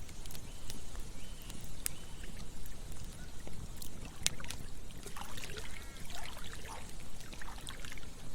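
Campfire crackling with scattered sharp pops, over a steady low rush of flowing water. A few short high chirping calls come in the second half.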